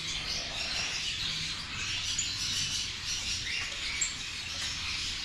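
A chorus of finches and other small cage birds chirping and twittering together, many high calls overlapping at once, with a few sharper, higher peeps standing out.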